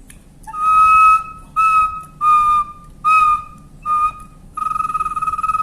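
Wooden bird-call whistle blown in five short notes at about the same pitch, each dipping slightly at its end, then a long held note with a fast flutter near the end.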